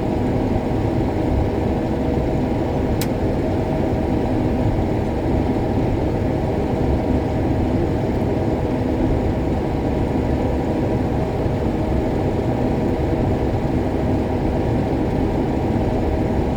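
Case IH Axial-Flow 7150 combine running steadily under load while harvesting soybeans, heard from inside the cab: an even drone with a few steady tones, and a single faint tick about three seconds in.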